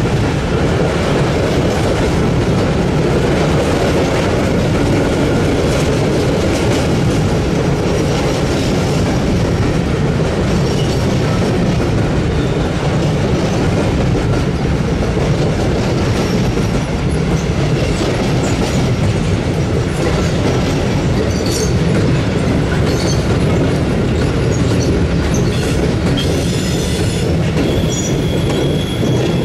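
Long train rolling past steadily, its wheels rumbling and clattering over the rails, with brief high wheel squeals near the end.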